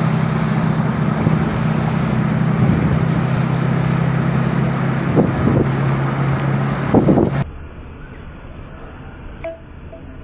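Storm noise: wind and rain rushing over the microphone, with a steady low engine hum underneath. About seven seconds in it cuts abruptly to a quieter, duller recording of the same weather.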